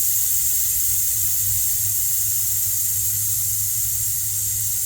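Air hissing steadily out of an e-bike's front tire valve as the tire is let down for removal.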